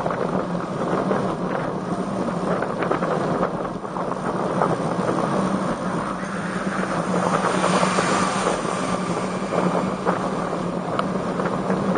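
Strong wind rushing over the microphone of a camera riding on a road bike, over a steady low hum. The noise swells louder about eight seconds in.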